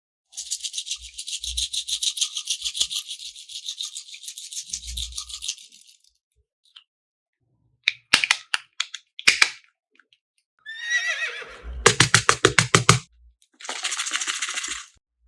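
Slime crackling and clicking as it is squeezed and worked, a dense high-pitched crackle lasting about five seconds. Then come a few sharp clicks, a falling squeal, a fast run of clicks, and another burst of crackling near the end.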